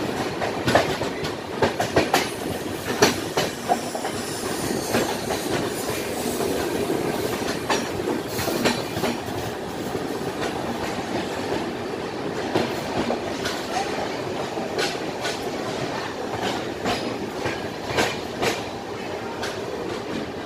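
Passenger train running through a station, heard from its open doorway: a steady rumble, with wheels clacking over rail joints at irregular intervals. A few louder clacks come in the first few seconds.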